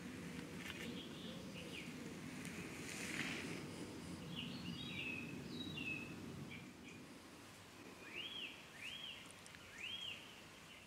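Birds calling over a steady low background rumble: scattered chirps, then near the end three arched notes that rise and fall, about a second apart.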